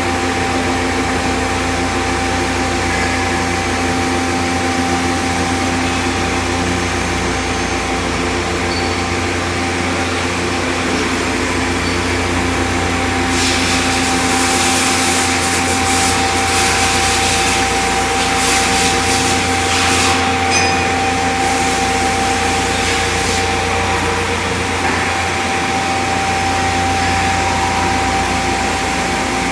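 Industrial wet floor-cleaning machine running steadily with a constant motor whine and hum. A louder hiss joins it from about 13 to 23 seconds in.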